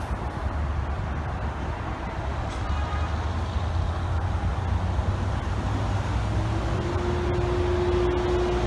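Steady low rumble of road traffic and a distant approaching train. About six and a half seconds in, a single steady whine comes in from the train, rising slightly and then holding.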